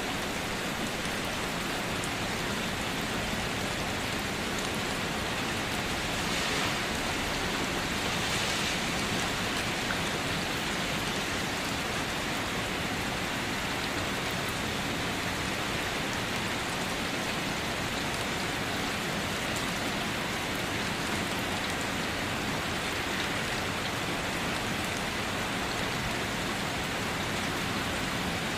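Steady rain falling on a car, heard from inside it as a constant hiss of drops on the roof and glass. It swells slightly for a few seconds about a quarter of the way in.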